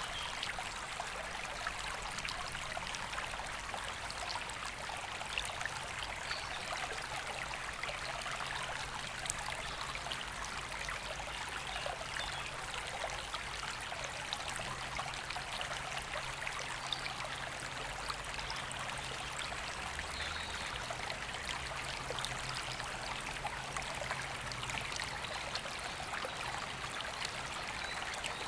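A river running: a steady, unbroken rush of flowing water.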